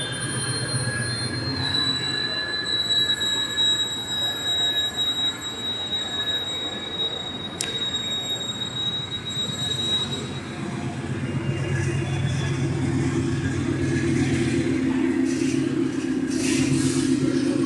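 Train moving along the rails with a high, steady wheel squeal through the first half and a sharp click about seven seconds in, then a heavier low rumble from the train's running gear.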